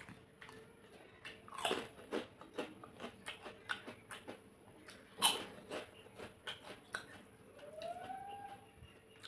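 Close-miked eating of crunchy food: two loud crunching bites, about two and five seconds in, each followed by a run of crisp chewing crunches.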